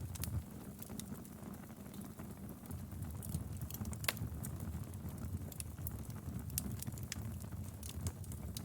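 Wood fire burning in a fireplace: a steady low rumble of flames with scattered sharp crackles and pops from the burning logs, one louder pop about four seconds in.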